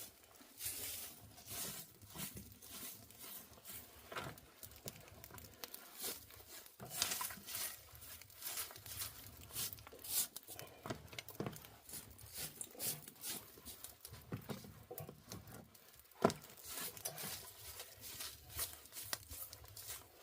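Hands rummaging through things: scattered rustling, crinkling and small clicks and knocks, with one sharper knock about sixteen seconds in.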